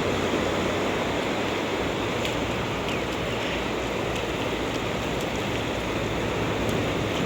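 Sea surf washing on a sandy beach: a steady rushing noise with no breaks.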